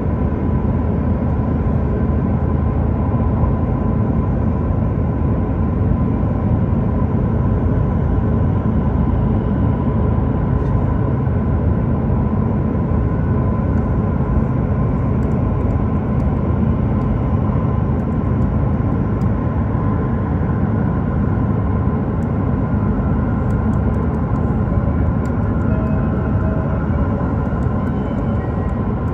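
Joetsu Shinkansen train running at speed, heard from inside the cabin: a steady, even rumble with a faint steady whine above it.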